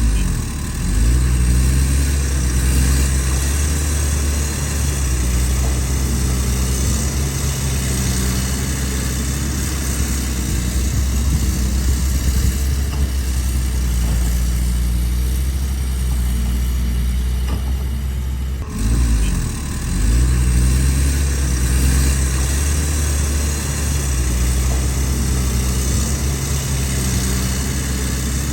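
Excavator's diesel engine running steadily under load, its pitch wavering slightly, with a sudden break about two-thirds of the way through before it carries on.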